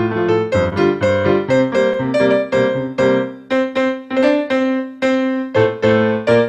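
Solo piano playing chords and melody notes at a moderate pace, with a few longer held notes a little past the middle.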